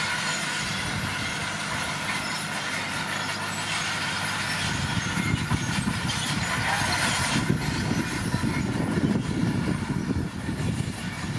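Komatsu D41P crawler dozer working, its diesel engine running under the clatter and squeal of its steel tracks. About halfway through, the low end grows rougher and more uneven as it works harder.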